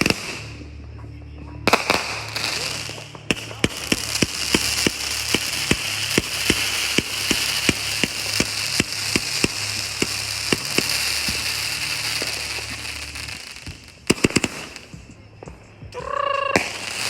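Fireworks going off: a long run of sharp cracks, a few a second, over a crackling hiss for about ten seconds. Then comes a quick cluster of bangs near the end.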